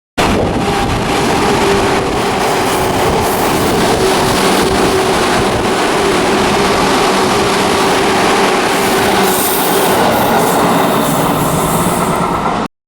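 Seibu Railway electric train passing through a station without stopping: a loud, steady rush of wheels on rail with a held tone running through it. It cuts off abruptly at both ends.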